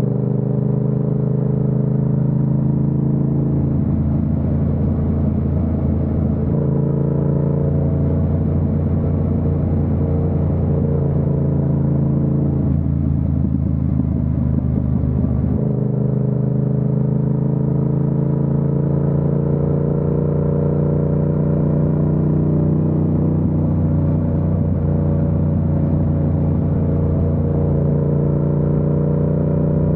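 Yamaha MT-07's 689 cc parallel-twin engine and exhaust running at fairly steady cruising revs, heard from on the bike. The note changes for a few seconds twice, about 4 and 13 seconds in, then settles back.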